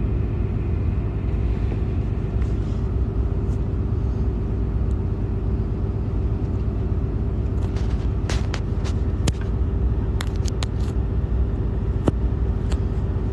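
Truck idling, heard from inside the cab: a steady low rumble and hum. A run of sharp clicks and taps comes about eight to eleven seconds in, and one or two more near the end.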